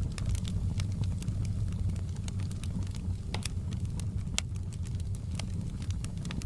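Outdoor campfire burning, with frequent sharp crackles and pops over a steady low rumble of the flames.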